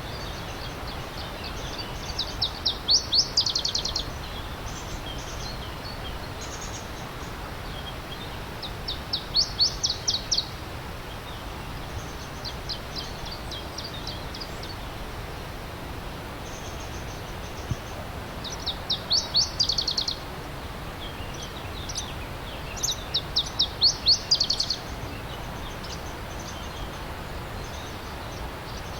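A songbird singing loud, rapid trills of quick down-slurred notes, in four main phrases of one to two seconds each, with a few fainter notes between. Under it runs the steady rush of a stream.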